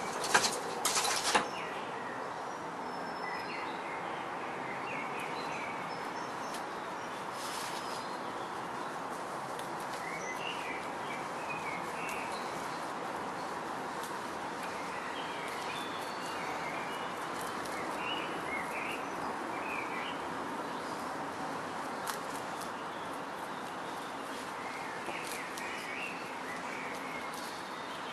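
Steady outdoor background hiss with small birds chirping on and off. A few sharp knocks in the first second and a half.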